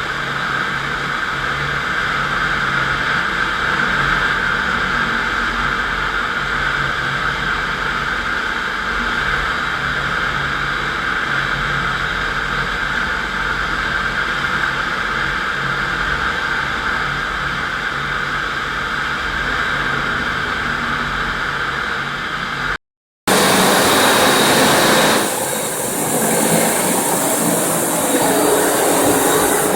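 FastPrep concrete floor grinder running steadily, its 16-grit diamond grinding plates working the concrete with a steady, even whine. Near the end the sound cuts out for a moment and comes back louder and rougher.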